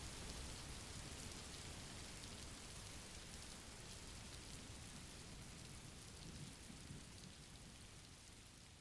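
Steady rain ambience, gradually fading out.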